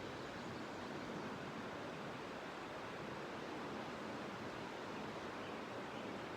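Steady rushing of a braided river's current flowing past a sediment bar, an even wash of water noise.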